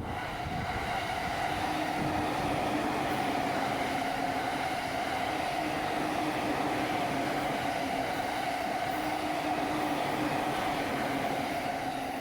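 Electric commuter train passing close by on the tracks: a steady rush of wheel and running noise with a steady humming tone. It swells in the first second and begins to fade near the end.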